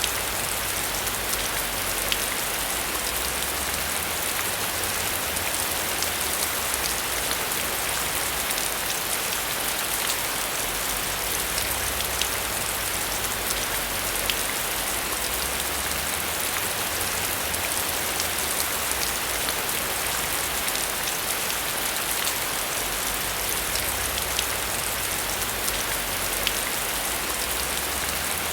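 Steady heavy rain: an even, unbroken hiss of rainfall with scattered sharper drop ticks.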